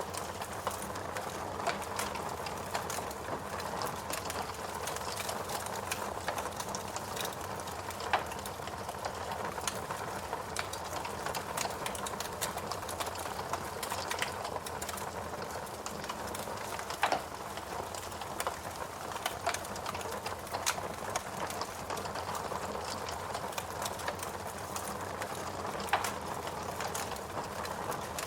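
Wood logs burning in a fireplace: a steady hiss full of small crackles, with a few louder pops about every nine seconds.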